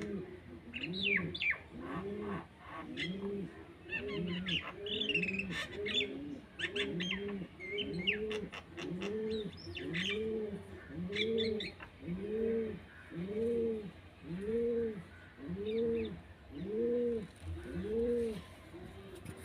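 Birds calling: a low, arched call repeated steadily, doubled up and quicker in the first few seconds, then about once a second. Sharp higher chirps and whistles come over it during the first twelve seconds and then stop.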